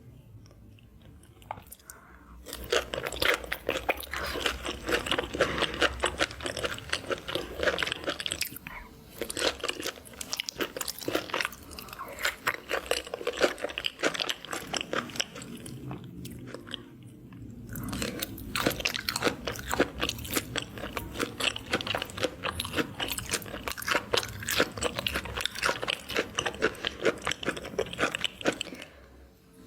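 Close-miked crunching and chewing of seafood, loud and crisp, in two long stretches after a quiet start, with a pause of about two seconds midway.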